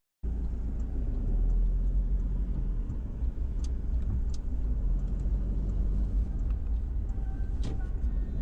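Car being driven, heard from inside the cabin: a steady low engine and road rumble that starts abruptly just after the start, with a few faint clicks.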